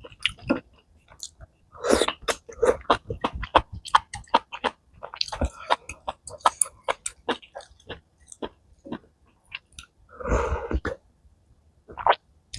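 A person chewing and slurping spicy malatang close to the microphone: a run of wet smacks and clicks, then a longer, louder burst about ten seconds in.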